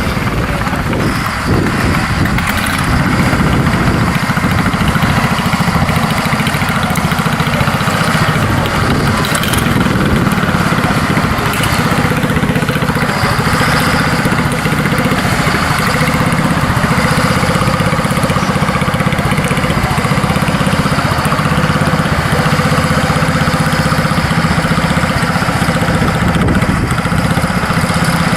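Caterpillar 140G motor grader's six-cylinder Cat 3306 diesel engine running steadily.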